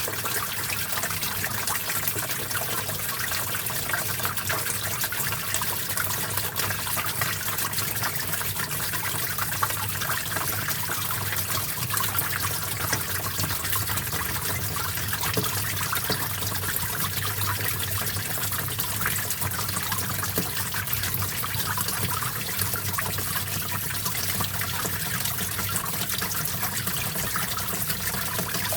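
Small stream of water flowing and trickling steadily, an even splashing hiss with no pauses.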